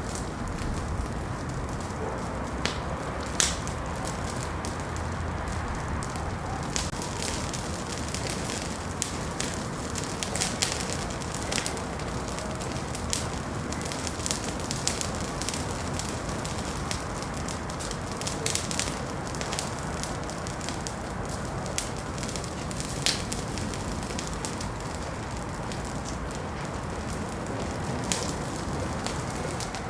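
Wood fire burning in a fireplace: a steady hiss of the flames with irregular sharp crackles and pops throughout.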